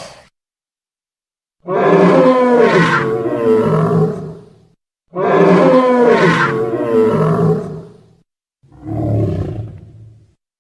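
Dinosaur roar sound effect: a wavering, growling roar of about three seconds, played twice the same way, then a shorter, lower roar near the end.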